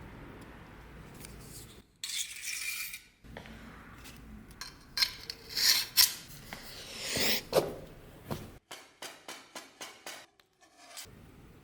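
Hand work on small metal parts: a few rasping, scraping strokes, then a quick run of light metallic clicks and taps near the end.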